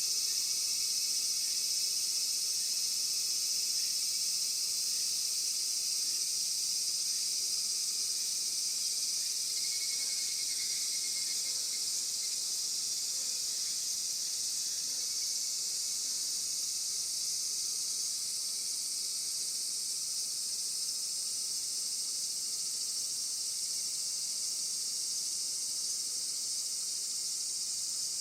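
A steady, high-pitched chorus of insects with no break, and a few faint bird chirps about ten seconds in and again near the end.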